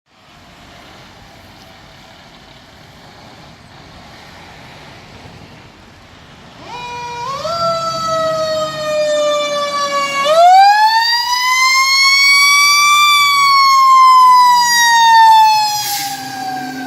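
Fire truck siren wailing. It comes in about a third of the way through, over a low steady background noise, then its pitch climbs smoothly to a high peak and slowly falls again.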